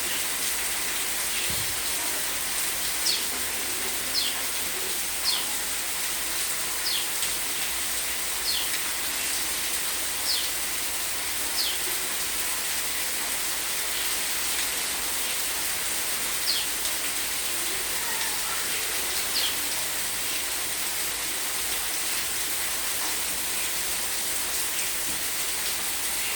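Steady hiss of heavy rain falling. Over it come short, high, falling chirps, about nine of them and roughly a second or two apart, from a few seconds in until past the middle.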